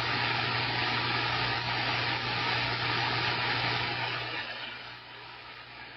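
CB radio static: a keyed-up transmission comes through the receiver as a loud, even hiss with a low hum under it, then falls to a quieter background hiss about four seconds in.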